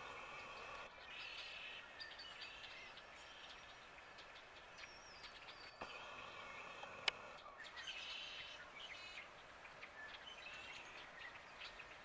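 Small birds chirping and calling, many short high calls and brief trills overlapping. There is one sharp click about seven seconds in.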